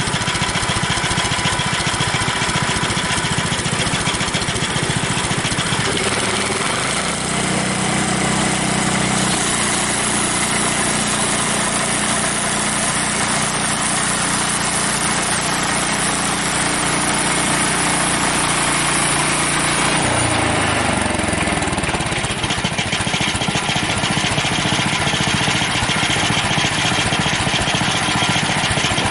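Frontier OS23 portable bandsaw sawmill running, its engine and blade going steadily as it works through a log. The engine note shifts about seven seconds in and drops in pitch around twenty seconds.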